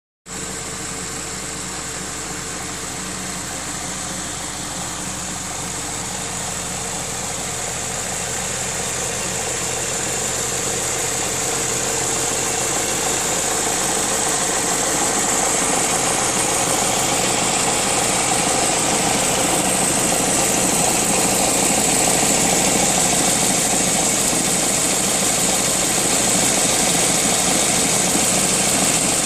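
Audi A4 allroad's 2.0 TFSI four-cylinder turbo petrol engine idling, with a soft knocking rattle from the S-tronic dual-clutch gearbox that sounds somewhat like a diesel. The sound is steady and grows gradually louder.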